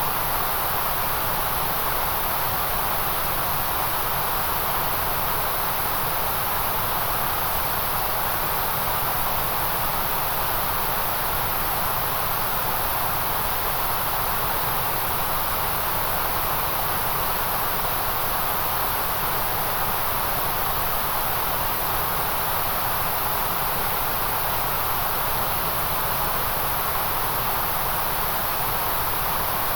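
Steady, unchanging synthetic white noise: an even hiss with no rhythm or events, brightest in the upper middle and the very high treble.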